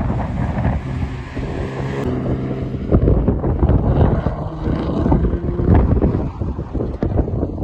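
Supercar engine running, with wind buffeting the microphone.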